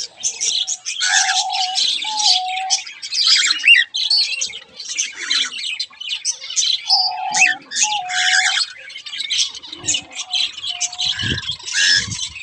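Many caged aviary birds chirping and squawking at once, in a dense, unbroken chatter. A short, held, mid-pitched call with a small step in pitch comes through twice, about a second in and again about seven seconds in.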